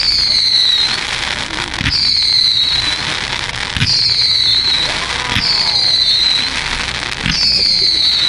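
Fireworks finale barrage: aerial shells bursting with a bang roughly every two seconds over continuous crackling, each bang followed by a high whistle that falls in pitch.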